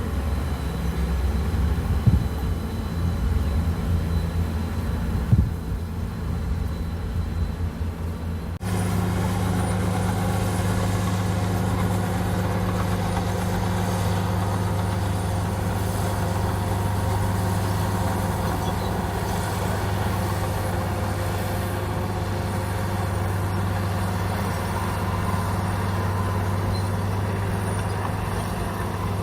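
Komatsu bulldozer's diesel engine running steadily, with two sharp knocks in the first few seconds. About nine seconds in the engine note changes abruptly to a steadier, slightly higher hum.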